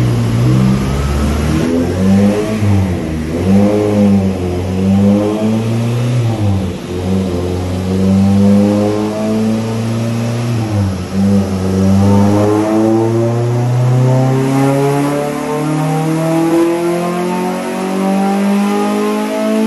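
Honda Prelude's H22A 2.2-litre DOHC VTEC four-cylinder engine, with headers and a 2.5-inch straight-piped exhaust, being revved on a chassis dyno: several quick rises and falls in revs, then from about twelve seconds in one long, steady climb in revs.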